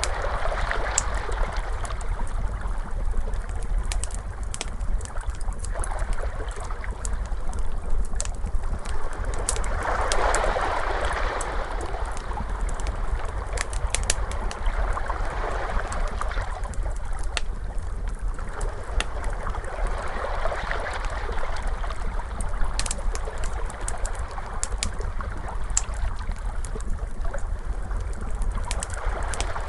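Ocean waves washing in slow swells every few seconds, mixed with the sharp pops and snaps of a crackling fire, over a constant low rumble.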